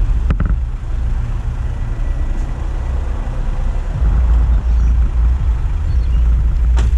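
Wind and road rumble buffeting a GoPro on the roof of a moving car: a heavy, low rumble that grows louder about four seconds in, with a brief knock just after the start.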